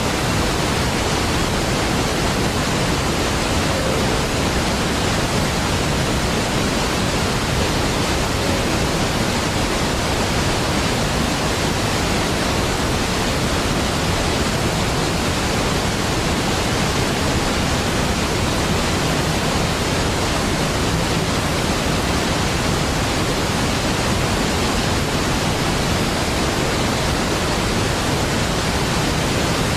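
Large waterfall: falling water rushing as an even, unbroken wash of noise that holds a steady level throughout.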